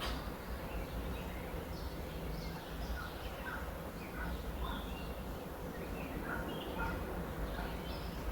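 Birds chirping in many short, scattered calls over a steady low background rumble.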